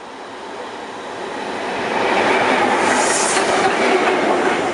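Train passing close along a station platform: the noise of its wheels on the rails grows louder over about two seconds, then holds loud as it goes by, with a brief high hiss a little past the middle.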